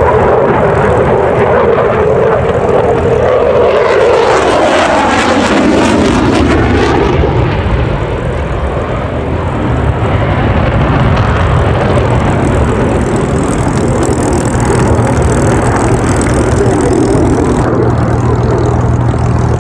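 Propeller-driven piston aircraft flying past, its engine note falling in pitch a few seconds in as it passes.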